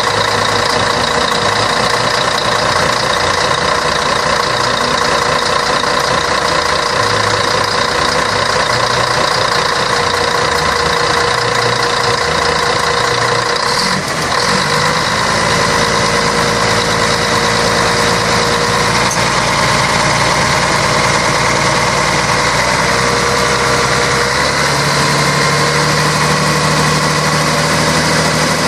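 The 11-litre six-cylinder diesel engine of a Scania K113 bus running steadily. About halfway through, the sound briefly dips and its pattern shifts, and a few seconds before the end the deepest tones change again.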